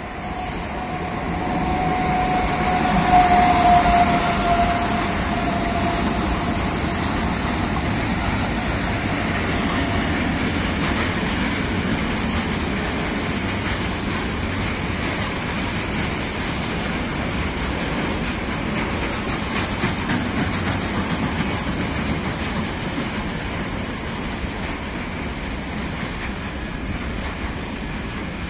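A freight train of E.191 electric locomotives passes close by. A single whine peaks and sinks slightly in pitch a few seconds in as the locomotives go by. Then a long string of grain hopper wagons rolls past with a steady rumble and rhythmic wheel clatter over the rail joints.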